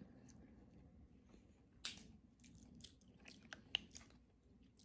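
A person chewing food close to the microphone: quiet, scattered wet clicks and smacks, with a sharper one about two seconds in.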